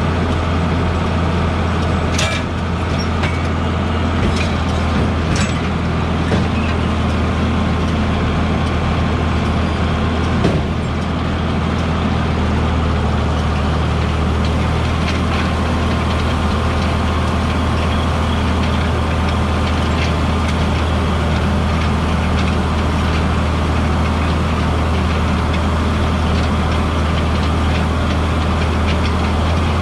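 A large engine running steadily with a deep, even drone, and a few short clicks and knocks in the first ten seconds or so.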